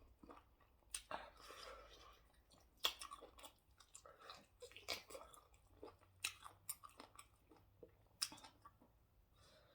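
Faint close-up chewing of fufu with ogbono soup: irregular wet mouth clicks and smacks, with a sharper click about 3 s in and again about 8 s in.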